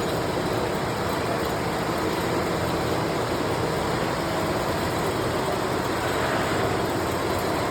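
Steady mechanical running noise with a low, even hum, like a motor or engine running without change.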